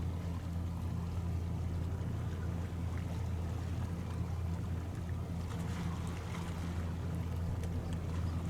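A boat's engine running steadily at the harbour, a constant low hum.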